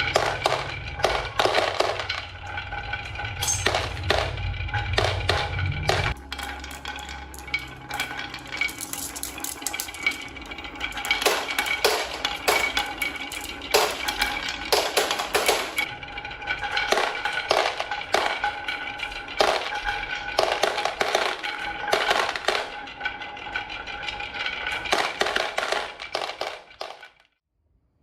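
Rapid clicking and clinking of small hard toy parts over steady music-like tones, with a low rumble during the first few seconds. It all stops suddenly near the end.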